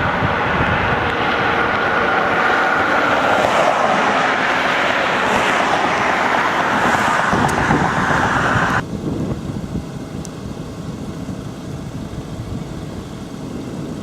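Steady road and wind noise of a moving car. About nine seconds in it drops off suddenly to quieter, duller noise.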